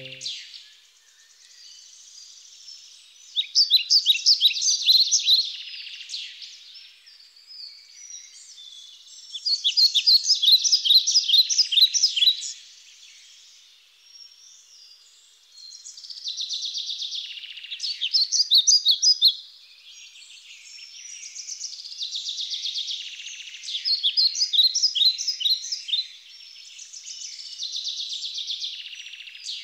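Small birds singing: bursts of quick, high chirps lasting two to four seconds, coming back every few seconds over a faint hiss.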